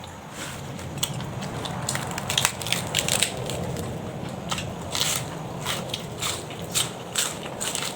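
Crisp raw vegetables being bitten and chewed, a run of sharp crackly crunches about two a second.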